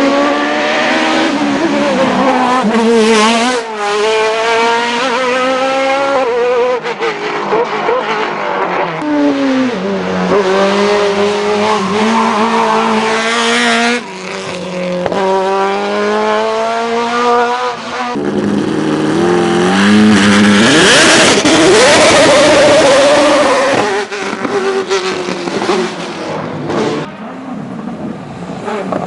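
Hillclimb race car engines at full throttle. The pitch climbs through each gear and drops sharply at the shifts, over and over. Around two-thirds of the way through there is a harsher, noisier stretch.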